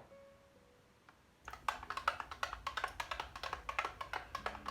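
A utensil stirring a thick sour cream and milk sauce in a container, with rapid irregular clicks and knocks against the container starting about a second and a half in.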